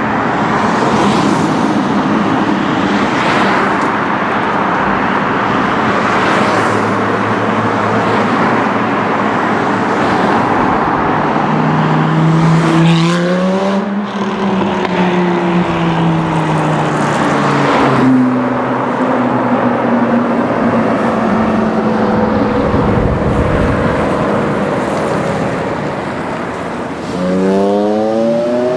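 Performance car engines accelerating hard: the engine note climbs in steps as gears are shifted, then falls away and fades as a car pulls off. Near the end another car revs and accelerates with its pitch climbing again.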